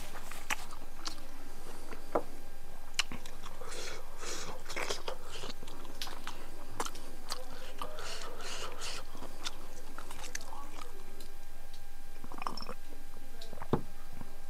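Close-miked chewing and mouth sounds of a person eating rice and chicken with his fingers, with a few sharp clicks.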